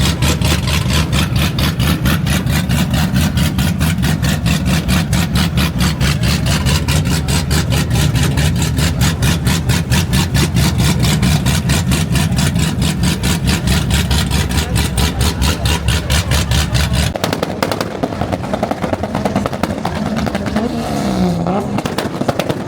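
Car engine idling loudly, with a rapid, even pulsing beat. About 17 seconds in it cuts off abruptly, giving way to a quieter mix with sweeping rising and falling tones.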